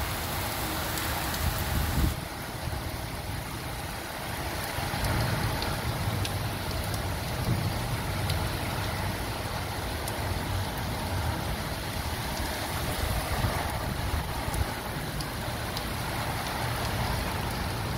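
Heavy rain pouring onto a concrete yard, a steady hiss, with an uneven low rumble underneath.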